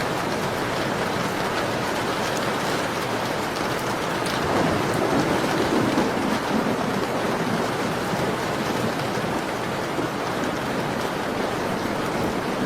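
Steady rain falling on a window, an even hiss with faint scattered drop ticks. About four and a half seconds in, a low swell rises for about two seconds and fades back.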